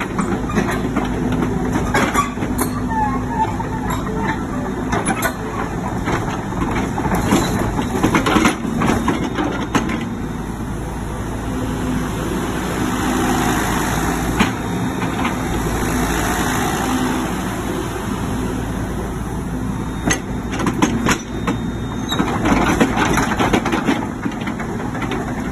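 Diesel engine of a used XCMG excavator running steadily, with scattered knocks and clanks from the machine and a swell in the engine noise in the middle.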